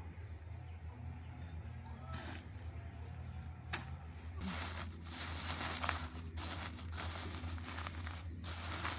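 Rustling, crinkling handling noise that starts about four seconds in and goes on unevenly, over a steady low hum.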